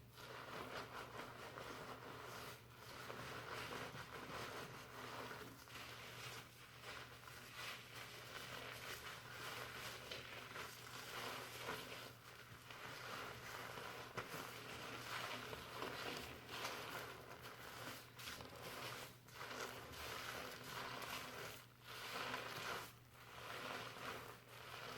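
Fingers scrubbing and massaging a shampoo-lathered scalp, the foam giving a continuous soft crackling rustle that rises and falls with each rub.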